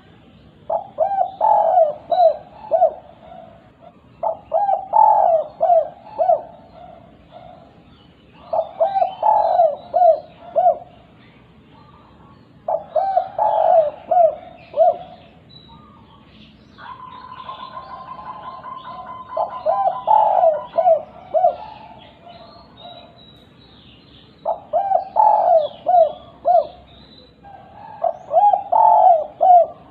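Spotted dove cooing in its 'kuk 2' song: seven phrases of several short coos each, repeated about every four seconds. A faint steady tone sounds briefly a little past the middle.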